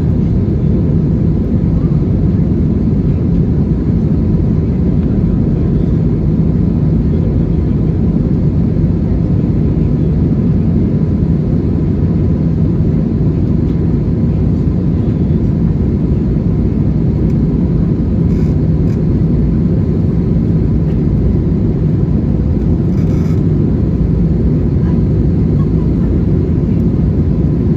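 Steady low roar of an Airbus A320-200 in flight, heard from inside the passenger cabin: engine and airflow noise with no change in level.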